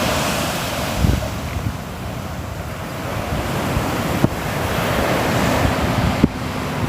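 Sea waves breaking and washing on a shore, swelling and falling back, with wind buffeting the microphone in a few low thumps.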